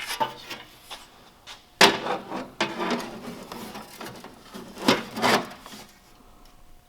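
Steel exhaust pipe and resonator knocking and scraping against each other and the car's underside as they are worked into place, with a sharp clank about two seconds in and two more around five seconds.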